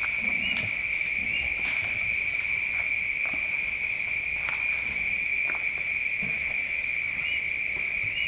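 Night insect chorus, crickets trilling steadily at one high pitch with fainter higher-pitched insects over it, with a few short chirps and faint clicks.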